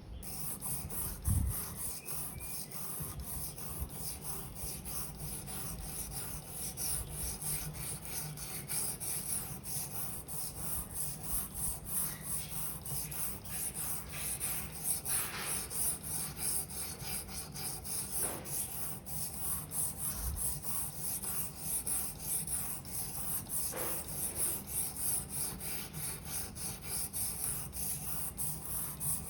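A Victorinox paring knife blade stroked back and forth on an 800-grit sharpening stone: a steady, rhythmic scraping, grinding the dull edge until a burr forms.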